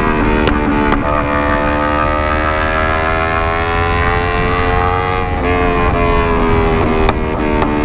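Kawasaki Ninja 250 parallel-twin engine running through an aftermarket Alpha Racefit full-system exhaust while riding. The note climbs slowly in pitch for several seconds, changes about five seconds in, then holds steady, with a few short clicks.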